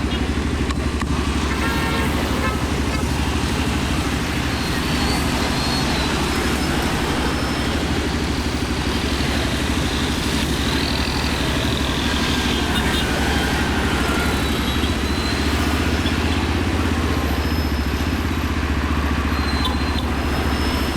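Motorcycle engine running steadily while riding in city traffic, with a low, even drone and no revving up or down.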